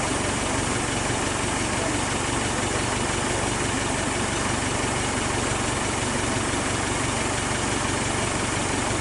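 An engine idling steadily, running evenly with no change in speed.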